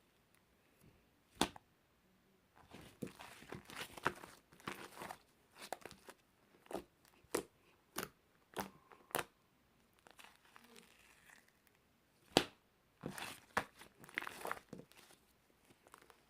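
Irregular close-up crinkling and rustling, with sharp clicks scattered through and the loudest click about twelve seconds in.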